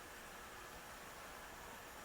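Faint, steady background hiss with no distinct sound standing out.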